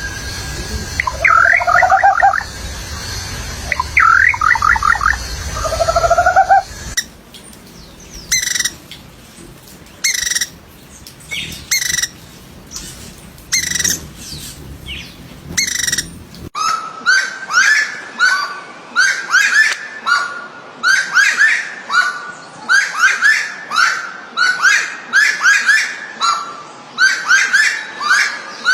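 Wild songbirds singing in three back-to-back recordings that change abruptly about seven and sixteen seconds in: first quick runs of falling notes over a low rumble, then single sharp calls about once a second, then fast repeated phrases of chirps.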